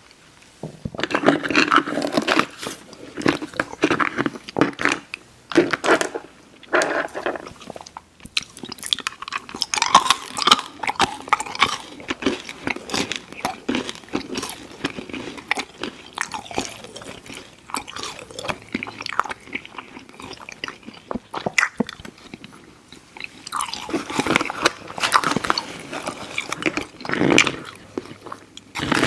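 Close-miked mouth sounds of chewing soft, chewy Airheads Xtremes sour candy: wet smacking and clicking of lips, tongue and teeth. It comes in louder stretches about a second in, around ten seconds, and again from about 23 to 28 seconds.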